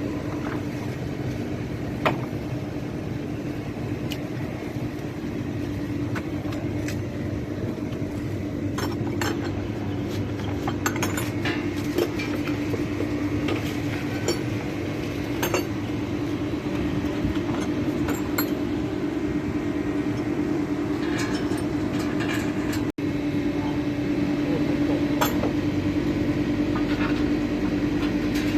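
Steady machine hum, with scattered light metallic clinks and taps from tools and metal parts being handled.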